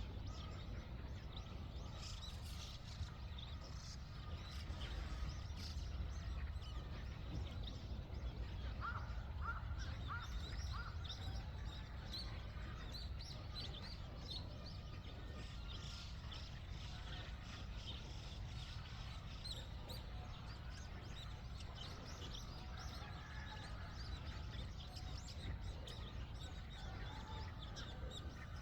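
Many small birds chirping and calling in short scattered notes, with a brief cluster of lower notes about nine seconds in, over a steady low rumble.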